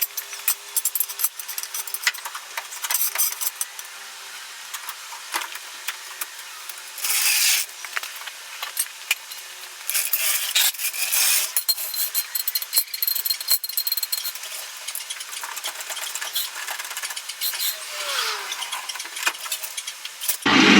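Hand and power tools at work on a truck's spring hangers: scattered clicks and clanks, with short power-tool bursts about seven seconds in and again around ten to eleven seconds. A louder steady machine noise starts right at the end.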